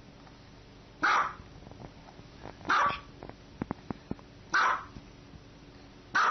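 Small dog barking: four single barks, evenly spaced about one and a half to two seconds apart.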